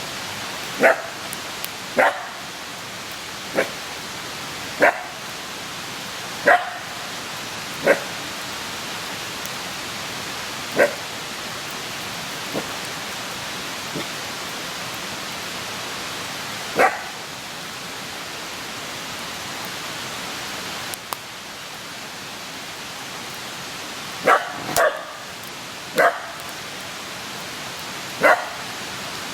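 A dog barking in single short barks, about a dozen at irregular intervals and two close together about 24 seconds in, over the steady hiss of a burning wood campfire.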